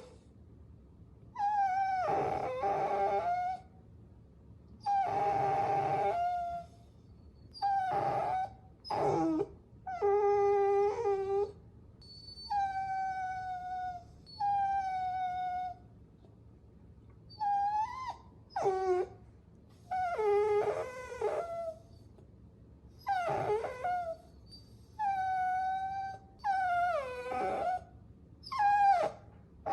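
Puppy whining: a string of about fourteen high-pitched whines and short howls, each lasting up to about two seconds with brief pauses between. Some hold a steady pitch and others slide downward.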